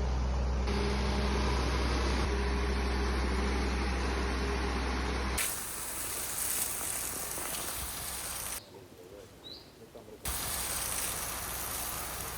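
A fire pump's engine running at a steady drone. Then, after a sudden cut, a steady rushing hiss like water spraying from a hose, broken by a short quieter stretch.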